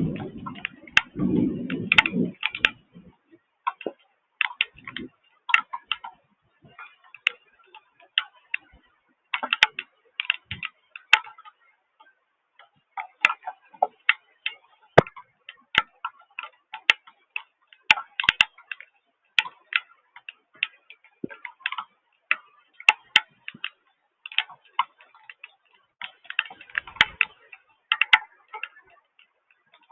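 Raindrops striking a hard surface close to the microphone: an irregular run of sharp ticks, several a second, bunching and thinning unevenly. A low rumble sounds in the first two seconds and briefly again near the end.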